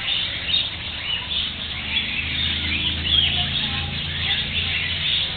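A flock of caged parakeets and cockatiels chirping and chattering continuously, many calls overlapping, over a low steady hum.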